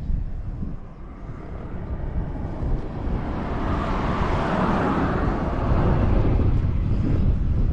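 Kawasaki ZRX400's inline-four engine running through a Moriwaki ZERO titanium full exhaust, with a steady low rumble that swells and grows louder from about three seconds in, as when the throttle is opened. The bike is said to have a broken governor and ignition timing out of adjustment, though without abnormal mechanical noise.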